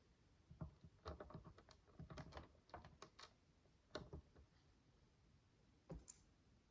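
Small plastic micro building bricks being handled: a quick run of faint, light clicks and taps for about four seconds, then a single click near the end.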